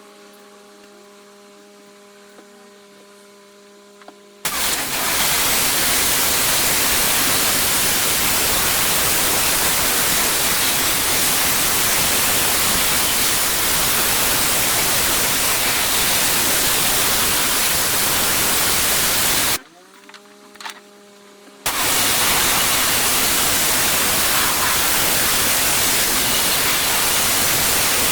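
Pressure washer spraying: the water jet gives a loud, steady hiss that starts about four seconds in. It breaks off for about two seconds around two-thirds of the way through and then resumes. In the gaps, only the machine's steady hum is heard.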